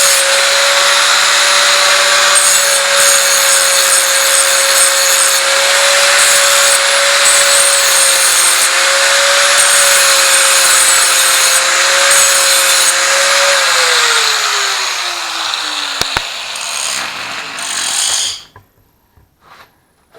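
Angle grinder running under load against steel, a steady motor whine over harsh grinding noise. The trigger is released after about thirteen seconds and the whine falls as the disc spins down; scraping continues for a few more seconds before it stops.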